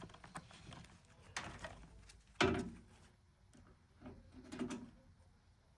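Handling noise of multimeter test probes being placed on a microwave oven's wire: scattered clicks and rustling, a sharp knock about two and a half seconds in and a few more knocks a couple of seconds later. No continuity beep is heard.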